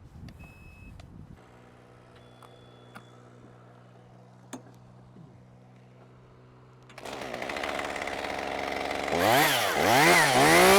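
A faint, steady engine hum, then about seven seconds in a chainsaw starts running loudly, and from about nine seconds it is revved up and down again and again.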